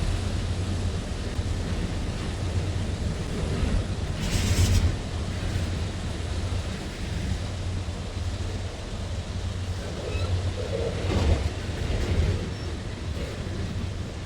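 Freight train rolling past with a steady low rumble. There is a short loud hiss about four and a half seconds in, and a brief swell near eleven seconds.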